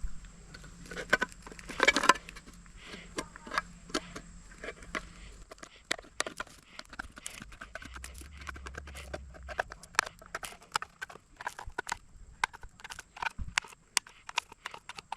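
Can of beans being opened with a knife instead of a can opener: the blade point tapping and prying around the lid in a long run of irregular sharp clicks and knocks, loudest about two seconds in.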